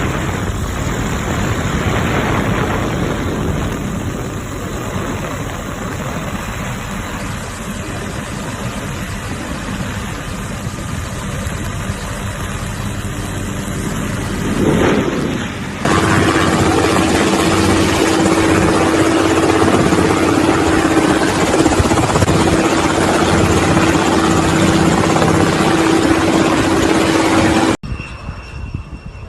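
Aircraft engine noise with a loud rushing roar spread across all pitches, heard in several clips cut together. From about sixteen seconds in a steady droning tone runs under the roar, and the sound cuts off sharply near the end.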